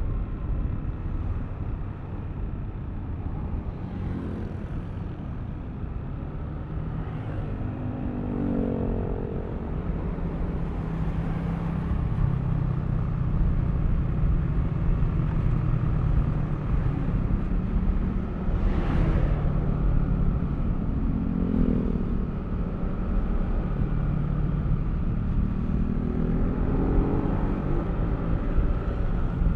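Yamaha Aerox V3 scooter's single-cylinder engine running under way with steady road and wind noise. The engine note rises in pitch as it accelerates, about three times.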